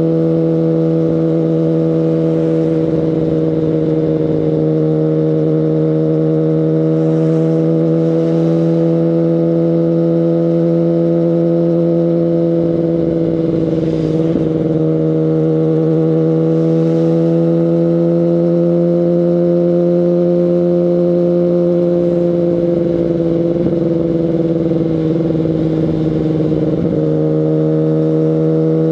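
2019 Kawasaki Ninja ZX-10RR's inline-four engine through an Akrapovic Evolution Line carbon full exhaust, running at a fairly steady engine speed while riding. Its pitch dips slightly a few times.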